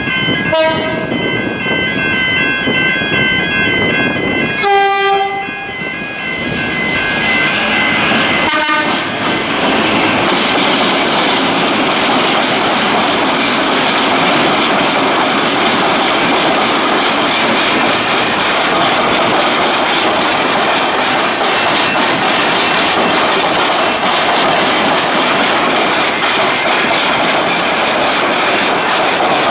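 A pulsing high ringing at the start. A suburban electric train then sounds its horn about five seconds in and again briefly near nine seconds. After that comes a steady rumble and clatter of the train's wheels as it passes over the crossing.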